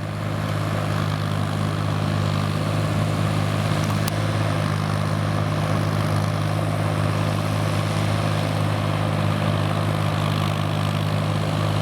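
Kubota M5000 tractor's diesel engine running at a steady speed, driving a rotary tiller.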